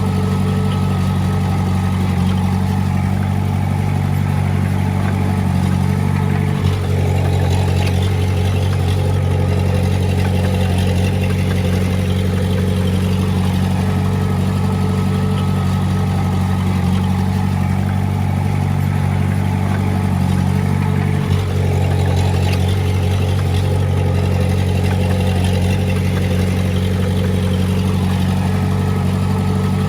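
Diesel engine of heavy earthmoving equipment running steadily at work, with a low, even drone that dips for a moment twice.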